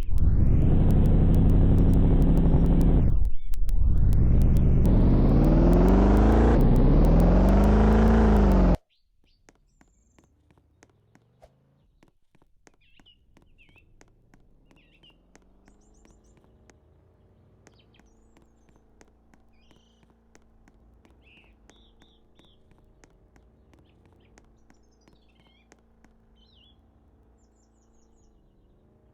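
A car engine revving loudly, its pitch falling, then climbing twice, cut off suddenly about nine seconds in. After that, birds chirping over a faint steady engine hum.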